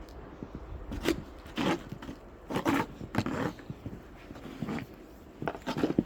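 Footsteps crunching in snow: about half a dozen irregular steps, a few of them louder.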